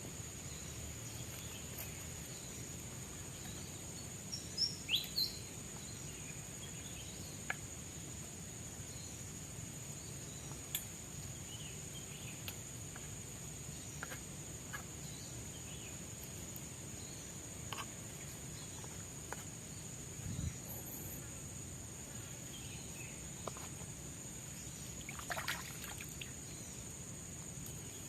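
Tropical forest ambience: a steady high insect drone with scattered short bird-like chirps and clicks, the loudest a quick cluster of chirps about five seconds in.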